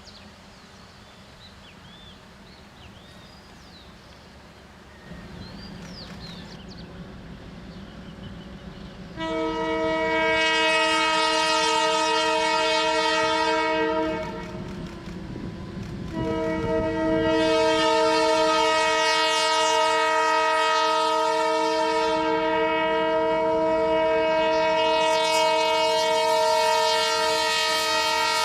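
Diesel locomotive's horn sounding two long blasts of a steady multi-note chord, the second held on past the end, over the rumble of an approaching train. Birds chirp faintly before the horn starts.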